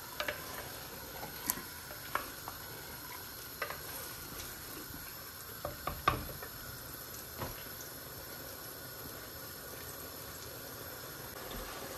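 Lamb keema and potatoes sizzling in oil in a pot as they are stir-fried at the bhuna stage. A spoon knocks or scrapes against the pot every second or two.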